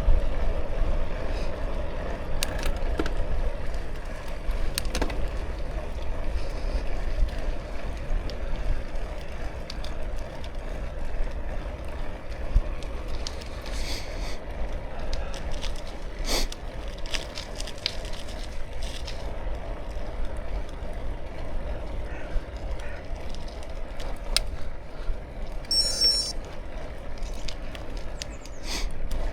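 Bicycle riding: tyres roll steadily under low wind rumble on the microphone, with occasional short clicks and rattles from the bike.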